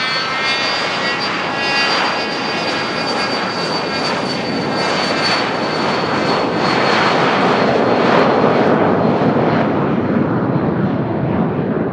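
Business jet passing on the runway: a high turbine whine that slowly drops in pitch, while the jet roar builds and is loudest about eight seconds in.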